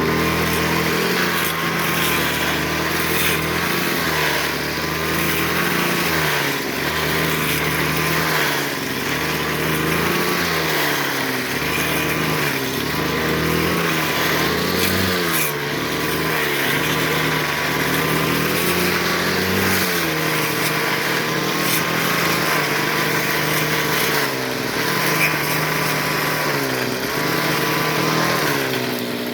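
Petrol brush cutter running at high throttle while cutting tall brush, its engine note dipping and recovering again and again as the line bites into the growth.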